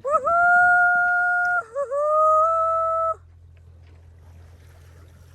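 A person's high-pitched, drawn-out "woo-hoo" whoop of delight in two long held notes, each over a second long. A low steady engine hum runs underneath.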